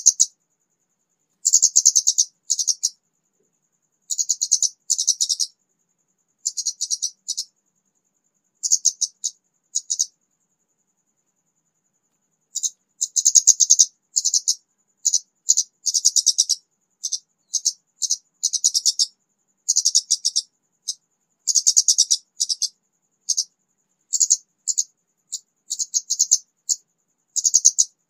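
Orange-headed thrush (kemade), a raw untrained bird just beginning to sing, giving short high, rapid chattering phrases over and over with brief gaps, and a pause of a couple of seconds about ten seconds in.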